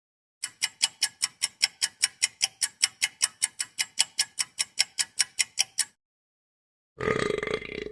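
Clock ticking sound effect: a steady run of quick, even ticks, about five a second, lasting about five and a half seconds. About seven seconds in, a different short noisy sound starts.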